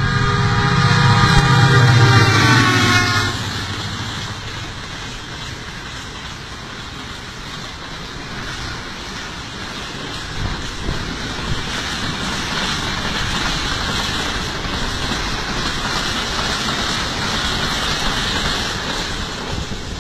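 A train horn sounds one steady blast for about three seconds. It is followed by the steady noise of a fast passenger train's coaches passing close by.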